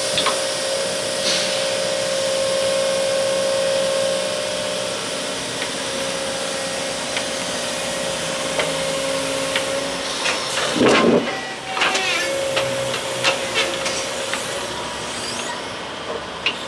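Work train running along the track, with a steady hiss and a constant whining tone. About eleven seconds in the tone drops out for a moment under a couple of louder knocks, followed by scattered sharp clicks.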